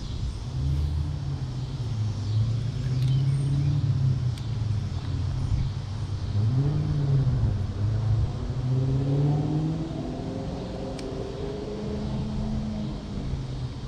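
An engine or motor running, its low hum rising and falling in pitch over several seconds.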